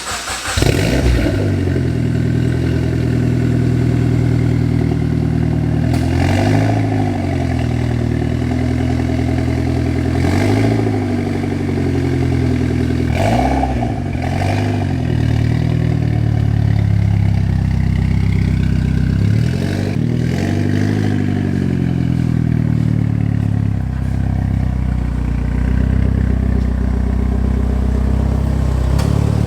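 Mitsubishi Lancer Evolution X's turbocharged 2.0-litre four-cylinder running through a catless downpipe, custom 3-inch mid pipe and Invidia mufflers. It fires up at the very start, settles into a steady idle, and is blipped briefly about four times.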